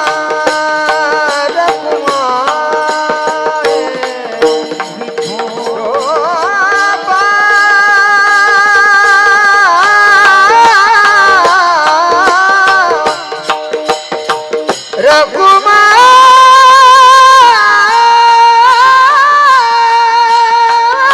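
Marathi devotional bhajan music: a long melodic line, held and gliding with wavering ornaments, over a fast, dense percussion beat.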